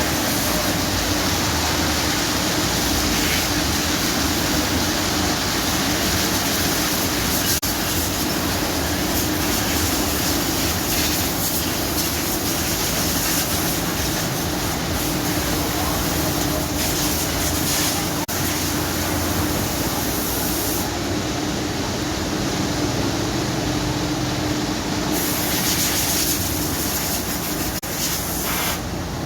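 Automatic car wash running: a steady loud rush of water spray and machinery with a constant motor hum. The hiss of the spray eases for a few seconds past the middle, then returns.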